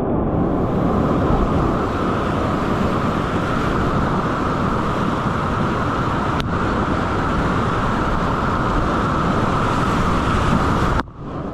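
Whitewater rapids of a river at high flow rushing loudly and steadily, with a single brief click about halfway through.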